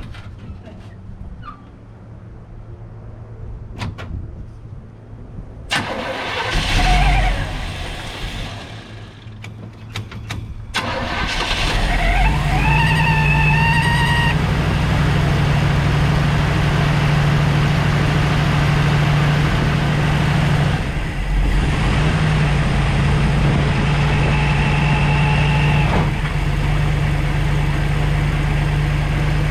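Supercharged engine of a long-sitting 1952 Mercury being started: a short loud burst of cranking and firing about six seconds in, then it catches about eleven seconds in and runs steadily. A high whine rises over the engine twice, and the engine dips briefly about two-thirds of the way through.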